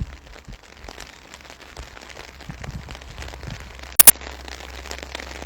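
Light rain pattering close to the microphone as many small, irregular ticks, with a sharp, loud double click about four seconds in.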